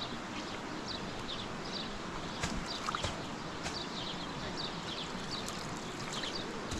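Small birds chirping again and again over a steady outdoor background, with a few sharp knocks around the middle.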